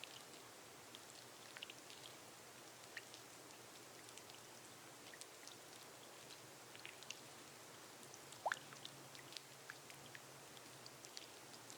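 Soft rain on a glass roof: a steady hiss with scattered individual drops ticking, and one louder, short rising plink about eight and a half seconds in.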